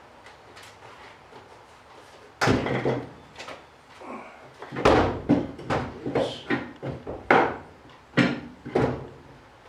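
A string of sharp knocks and clunks from a truck door being handled on a jack and worked onto its hinges. They start about two and a half seconds in, come irregularly about once or twice a second, and stop shortly before the end.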